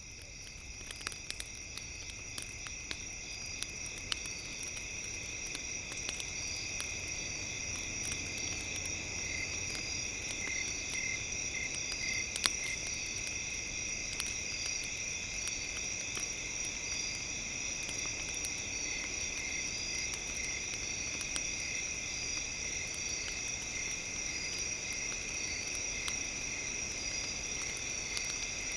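Campfire crackling in scattered sharp pops, under a steady high-pitched chirring of insects like crickets, fading in over the first few seconds.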